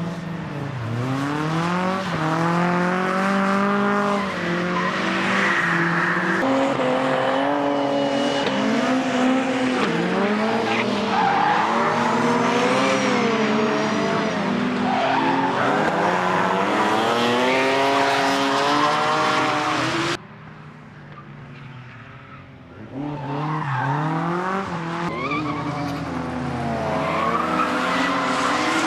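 Retro drift cars on track, their engines revving up and down repeatedly with tyre squeal as they slide. About two-thirds of the way through the sound drops away suddenly for a few seconds, then the engines come back.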